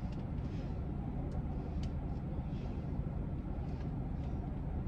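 Steady low rumble of a running car heard from inside the cabin, with a few faint clicks.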